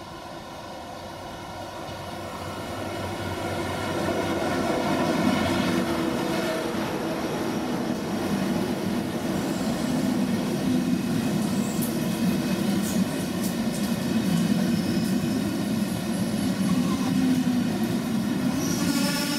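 An electric ICE high-speed train rolls along the platform. Its sound grows over the first few seconds, then settles into a steady rumble of wheels and running gear with a whine above it as the cars pass close by. A few light clicks come about twelve seconds in.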